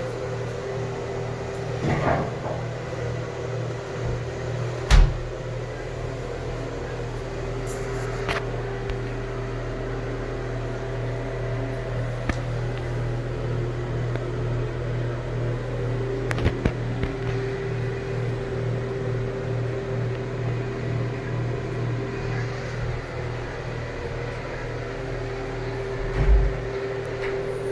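A steady electric motor hum with a faint wavering whine over it, broken by a few sharp knocks, the loudest about five seconds in and another near the end.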